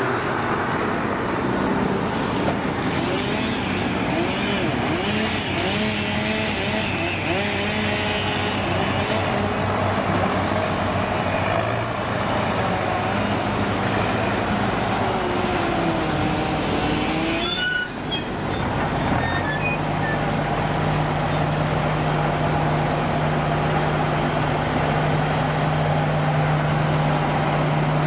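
Heavy diesel engines running. In the first half one is revved up and down over and over; after a sudden break about two-thirds of the way in, a steady engine drone holds.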